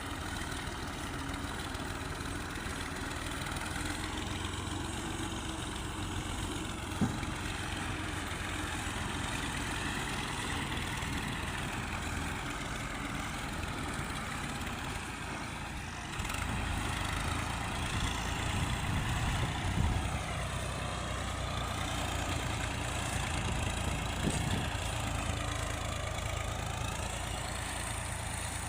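Fiat 480 tractor's diesel engine running steadily, its pitch slowly rising and falling. It gets louder about sixteen seconds in, and there is one sharp knock about seven seconds in.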